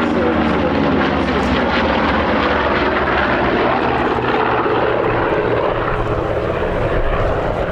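Propeller-driven piston-engined warbird flying past, its engine drone dropping in pitch in the first second or so as it goes by, then a steady rush of engine and propeller noise.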